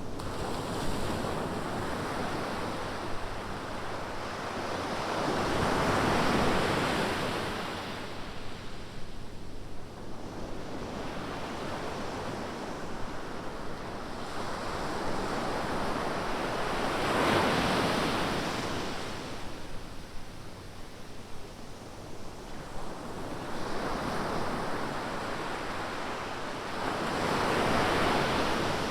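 Ocean surf: waves breaking on the beach and washing in, with three loud breakers about ten seconds apart and a steady rush of water between them.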